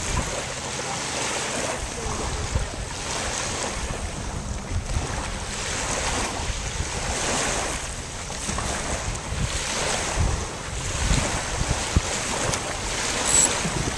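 Water washing along a sailboat's hull, surging and easing every second or two, with wind rumbling on the microphone.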